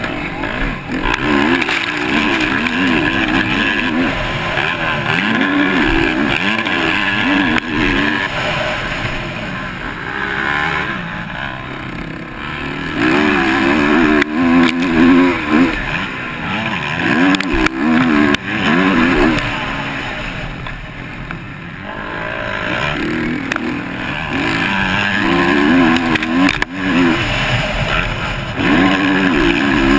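Motocross bike engine revving hard and easing off over and over as it is ridden round the track, its pitch rising and falling with each throttle and gear change, heard close from the rider's own camera with a steady rush of wind and track noise.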